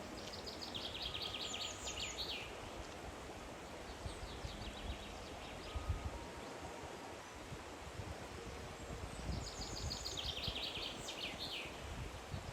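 A songbird sings the same short phrase twice, about nine seconds apart: a quick run of repeated high notes stepping down in pitch and ending in a flourish. Beneath it is a steady low background noise.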